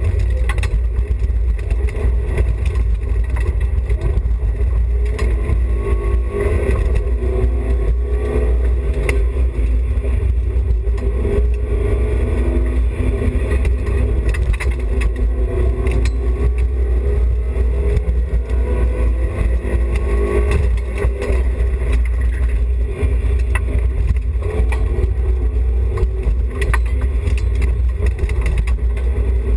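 Onboard sound of a BMW E30 316i rally car's 1.6-litre four-cylinder engine driven hard, its pitch repeatedly climbing and dropping as it revs through the low gears. A heavy rumble runs underneath, with scattered knocks from the car.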